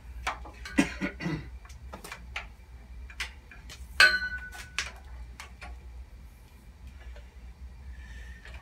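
Scattered clicks, knocks and metal clinks from handling a folded steel miter saw stand, with one louder ringing metal clank about four seconds in.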